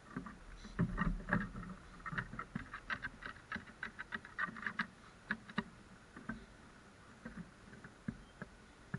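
Crows pecking at food on a hard surface: a rapid run of irregular taps and knocks, busiest in the first six seconds and thinning out after.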